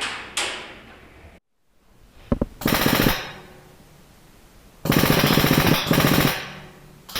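HPA airsoft gun firing on full auto: a short burst about two and a half seconds in, then a longer, louder burst of rapid shots lasting about a second and a half.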